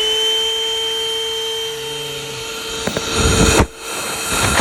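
ThisWorx 12-volt corded handheld car vacuum running at full speed just after being switched on: a steady whine. About three seconds in and again near the end, two bursts of loud, low rumbling noise come over it.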